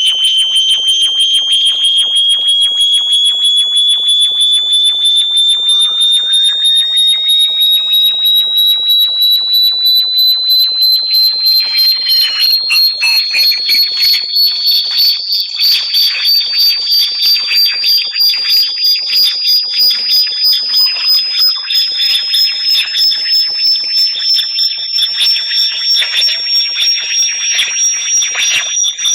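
Synthetic high-pitched tone sold as a bat repellent, rising slowly in pitch with fainter higher tones sweeping across it, all pulsing rapidly.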